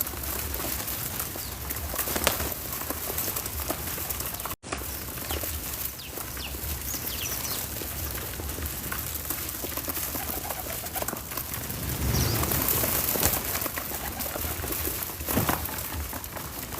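Backyard outdoor ambience with birds calling in short high chirps over a steady background hiss. The audio drops out completely for a moment about four and a half seconds in.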